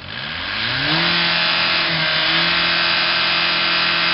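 Vehicle engine revved up within about a second and held steady at high revs through its exhaust, loud, with a brief dip about two seconds in: a full-throttle exhaust note being held for a decibel reading in an exhaust-noise contest.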